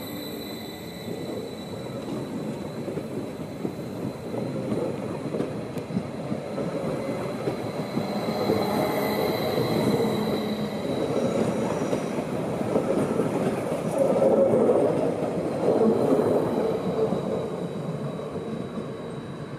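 SBB Stadler FLIRT electric multiple unit rolling on the rails: a dense rumble and rattle of wheels and running gear, with a thin, steady, high squeal above it. It grows louder toward its peak about 14 to 16 seconds in, then eases off.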